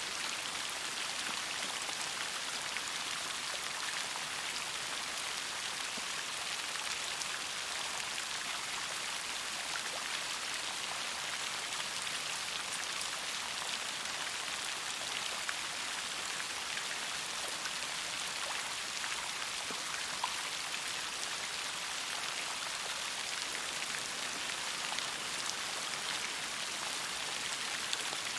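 Steady rainfall, a dense even patter of raindrops with scattered individual drop ticks.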